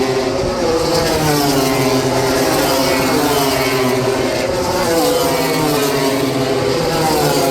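MotoGP racing motorcycles at speed, several high-revving four-stroke engines heard at once. Their pitch rises and falls with gear changes and passing.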